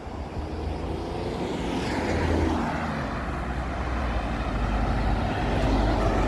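A bus driving past, with engine and road noise building gradually as it comes closer.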